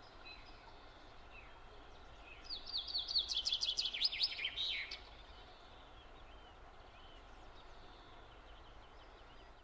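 A songbird singing a fast run of short, falling chirps for about two and a half seconds, starting about two and a half seconds in, over a faint steady hiss.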